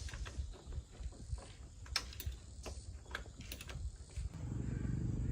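Scattered clicks and knocks of work on a motorbike, then a little over four seconds in a small motorbike engine starts running with a steady hum.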